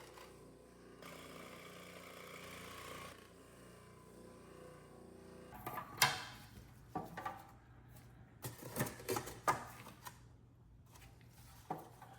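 Hand work in a toolbox restoration: a couple of seconds of scratchy rubbing, then a series of sharp knocks and clacks as parts are handled, the loudest about six seconds in.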